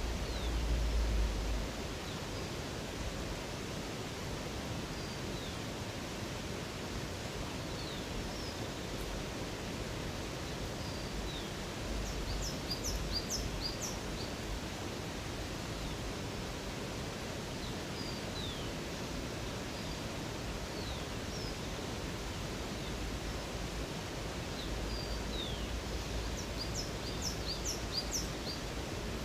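Steady rushing of running water with wild birds calling over it: scattered short high chirps that slide down in pitch, and twice a quick series of high notes, about halfway through and near the end.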